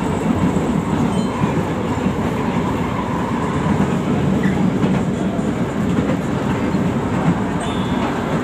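LRT Line 1 light-rail train running steadily, heard from inside the car: a continuous low noise of wheels on the elevated track.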